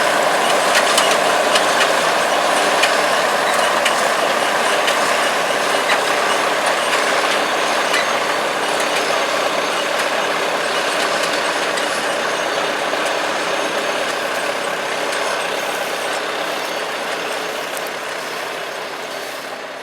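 International 1256 Turbo tractor's turbocharged six-cylinder diesel running steadily under load while its 430 small square baler works, a dense mechanical din that fades out near the end.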